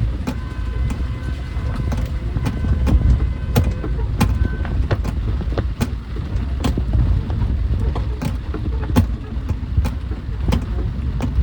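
Street noise in the rain: a steady low rumble of road traffic with irregular sharp taps throughout.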